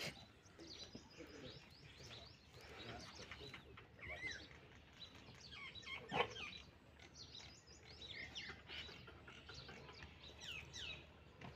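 Small birds chirping in the trees, many short quick chirps overlapping, faint. One brief louder call stands out about six seconds in.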